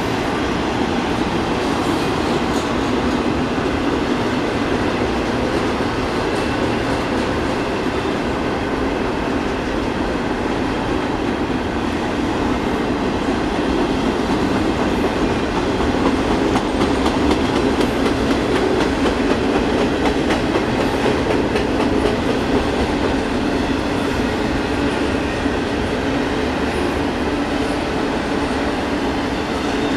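Union Pacific double-stack intermodal freight train rolling past: the steady running noise of its container cars and wheels on the rails, with a constant rapid clicking.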